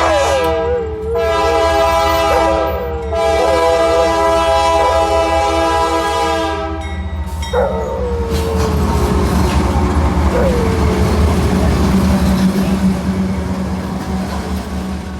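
Diesel freight locomotive's multi-chime air horn sounding in long blasts with short breaks, stopping about seven seconds in. After that the engine's low rumble and the wheels clacking over rail joints go on as the train passes, fading toward the end.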